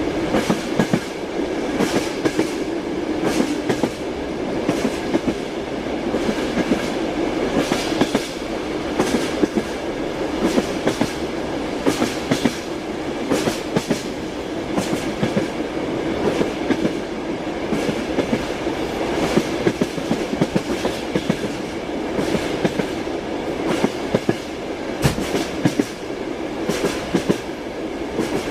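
Railway train running at speed: a steady rumble of the carriage with repeated sharp clacks of the wheels over rail joints.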